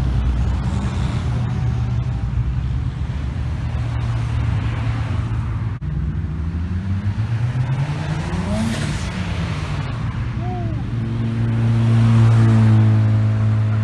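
Car engines as cars drive out of a car show. Midway one car accelerates with a rising engine note that peaks and then drops away as it passes, and near the end a louder engine runs at a steady note close by.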